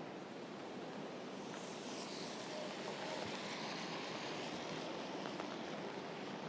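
Steady rain falling, an even hiss, with a brighter, higher hiss swelling briefly about two seconds in.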